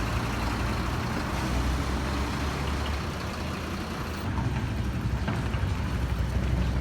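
Heavy vehicle engine running steadily, its low hum changing character about four seconds in.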